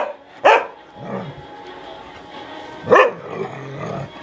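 Pit-bull puppy barking in play: two sharp barks in quick succession at the start and one more about three seconds in. The barking is a bid to get the other puppy to play.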